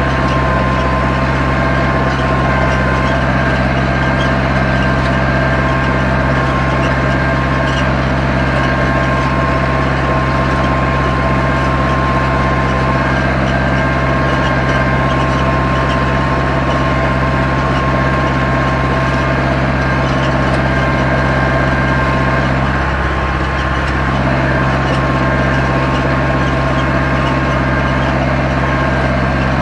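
Zetor 7245 tractor's four-cylinder diesel engine running steadily under load while ploughing, with a steady high whine over the engine note. The note dips briefly about three-quarters of the way through.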